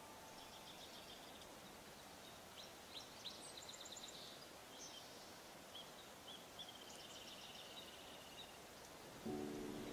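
Songbirds chirping over a faint, steady woodland hiss, with a quick, slightly falling trill about seven seconds in. Soft musical tones come in near the end.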